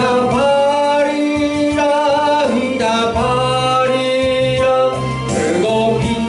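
Korean Christian worship song: a voice sings long held notes over instrumental backing.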